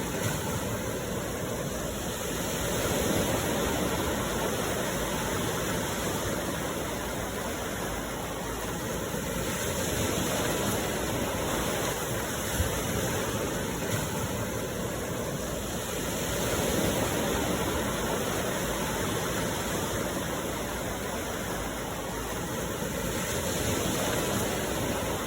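Sea waves washing onto the shore, a continuous rush that swells and eases every several seconds.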